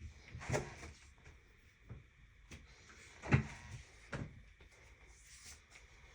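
A few scattered soft knocks and bumps, like things being handled in a small room, the loudest about three seconds in.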